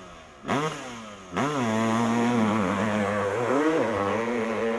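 Off-road motorcycle engine blipped twice, each rev rising quickly in pitch. From about a second and a half in it is held at high revs under load as the bike launches up the hill, the pitch wavering.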